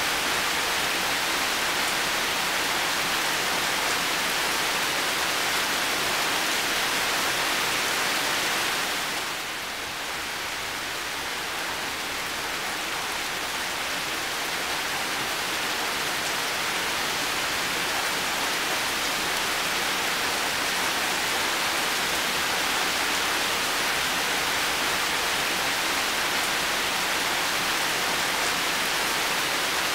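Heavy rain falling steadily, a dense even hiss. It dips a little about a third of the way in, then builds back up.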